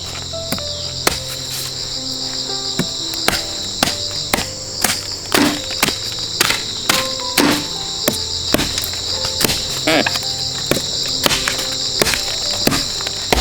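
Steady high-pitched drone of an insect chorus, crickets or cicadas, with a string of sharp knocks at an uneven pace, about one or two a second. Soft background music underneath.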